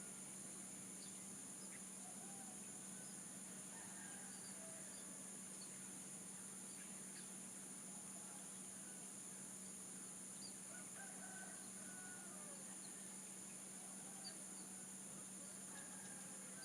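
Faint rural ambience: a steady high-pitched drone of insects such as crickets, with distant chickens and roosters crowing and clucking on and off, and scattered short bird chirps.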